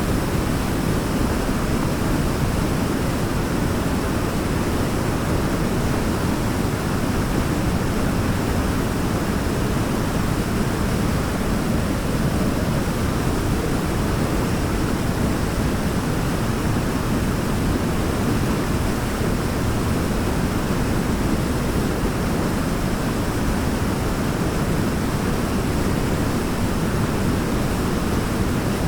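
Waterfall: falling water making a steady, even rush of noise, deep and weighted toward the low end, with no breaks or changes.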